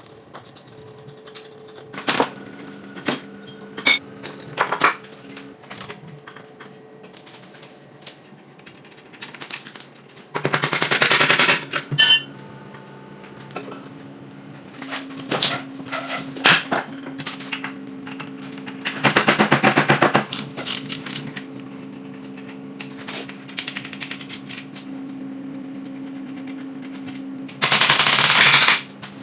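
Workshop sounds from work on metal parts: scattered knocks and clanks, and three short bursts of a rapid-hammering tool, each lasting about a second and a half, over a low steady hum.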